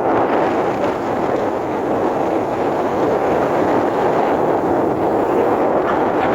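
Train running, heard from on board as a steady loud rushing noise of wheels, rails and wind.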